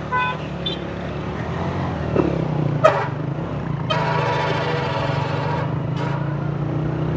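Honda CG 125's air-cooled single-cylinder four-stroke engine running steadily while riding. A short horn note ends right at the start, and a long steady horn blast of nearly two seconds sounds about four seconds in.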